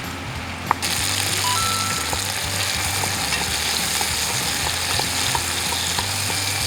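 Pork belly sizzling in a hot pan, a dense steady frying hiss that starts abruptly about a second in.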